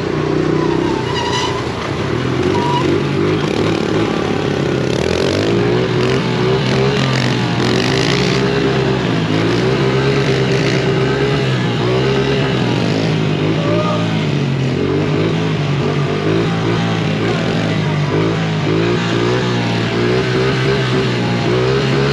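Small pit bike engines revving up and down over and over, above a steadier engine drone.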